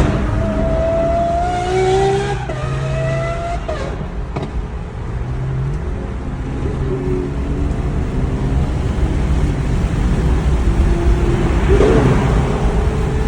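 Performance car engine accelerating hard, its pitch climbing, dropping at an upshift about two and a half seconds in, then climbing again. Engine noise carries on after that, and another engine revs up, rising near the end.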